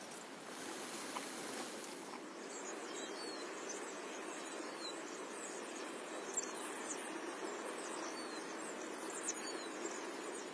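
Birds chirping: short, high calls, many of them falling in pitch, scattered through from about two seconds in, over a steady background noise.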